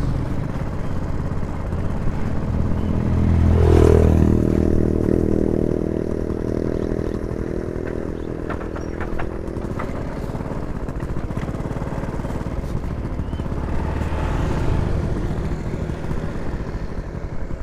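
Motor vehicles passing by: a steady engine hum, loudest as one goes past about four seconds in, with another passing more faintly around fourteen seconds in.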